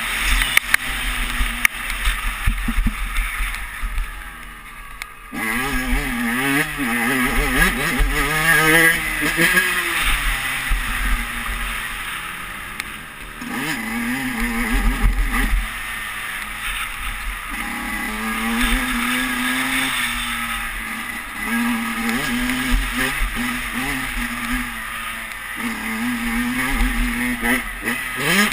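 Dirt bike engine revving up and falling off again and again as it is ridden round a motocross track, with wind buffeting the helmet-mounted camera. The engine dies down about four seconds in, then opens up sharply again a second later.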